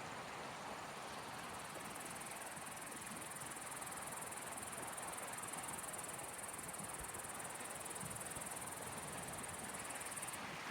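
An insect's high, continuous trill that starts about two seconds in and cuts off suddenly near the end, over a soft, steady wash of small waves.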